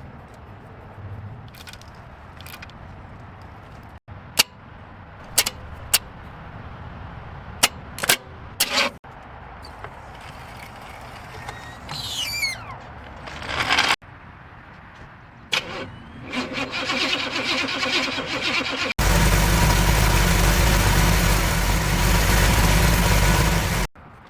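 A car engine cranking on the starter, catching and running loudly, then cutting off suddenly near the end. Scattered sharp clicks and knocks come before it.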